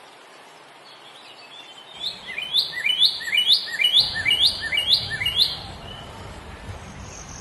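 A songbird singing a run of about seven repeated down-slurred notes, roughly two a second, over faint outdoor background noise.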